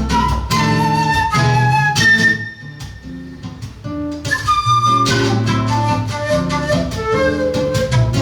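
Flute and seven-string guitar duo playing: the flute carries the melody over plucked guitar chords and bass notes. About two seconds in, the flute holds a high note, then the playing drops quieter for a couple of seconds before picking up again.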